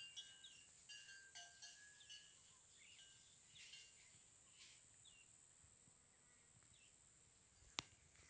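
Faint outdoor ambience: a steady high insect drone, with birds chirping in short calls, mostly in the first half. One sharp click near the end.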